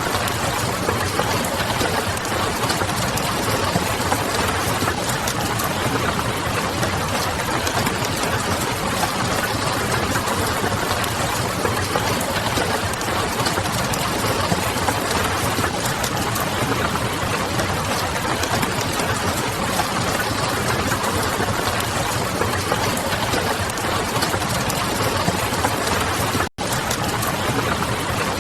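Steady rain mixed with the crackle of a wood fire and a low, distant city hum: a dense, even hiss with many fine, quick crackles. The sound cuts out for an instant near the end.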